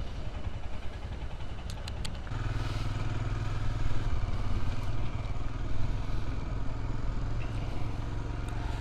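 Motorcycle engine running while riding. Its note steadies and grows stronger about two seconds in, with a few light clicks just before.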